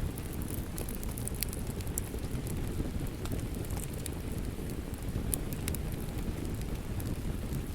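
Wood fire crackling in a fireplace: a steady low rumble of burning with frequent small, sharp pops and crackles scattered throughout.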